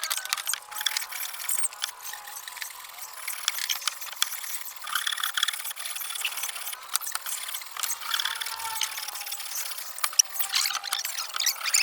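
Irregular clicks, light knocks and scraping from hand work with tools on wood, with no steady machine running.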